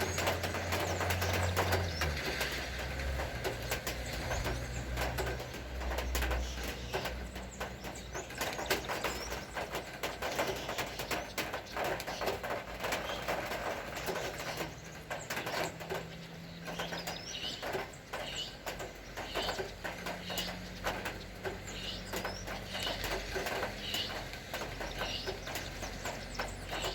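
Rain dripping and tapping in dense, irregular hits. A vehicle's engine passes during the first few seconds and fades. Birds chirp in short, repeated calls from about halfway on.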